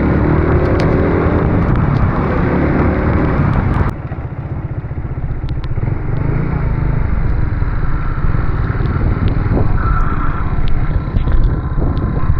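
Motorcycle riding on the road, its engine mixed with heavy buffeting noise, the sound changing abruptly about four seconds in.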